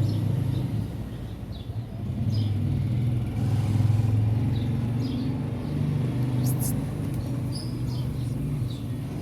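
A low, steady rumble of background noise, with brief high chirps now and then.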